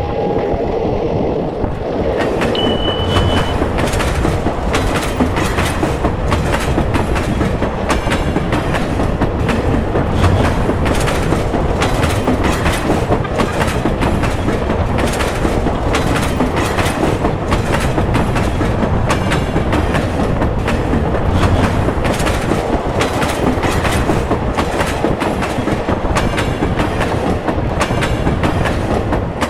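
A passenger train running at speed, heard at an open carriage window. Its wheels clatter over the rail joints in an irregular clickety-clack over a steady rumble of rushing noise.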